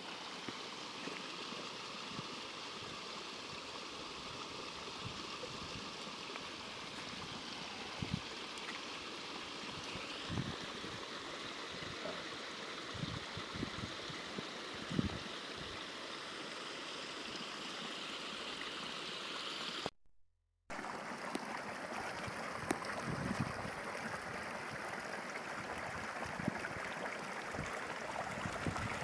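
Heavy rain falling steadily, an even hiss with scattered low thuds. It cuts out to silence for under a second about twenty seconds in.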